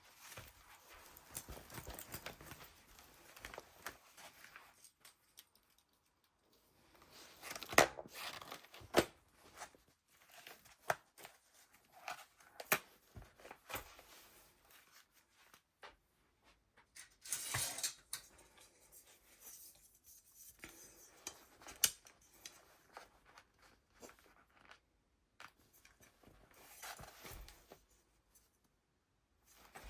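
Pages of a handmade junk journal being turned and handled: paper rustling with scattered soft taps and clicks, and a longer rustle of a page turning partway through.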